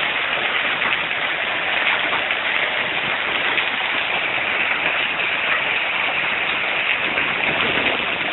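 Dense hail of quarter-sized stones falling nonstop, a steady patter of countless small impacts on the ground and roofs, mixed with a little rain.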